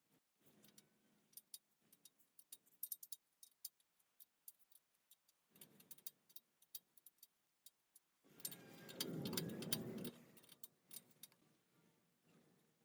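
Faint scattered light clicks and taps. About eight seconds in, a louder stretch of low rubbing noise lasts for about two seconds.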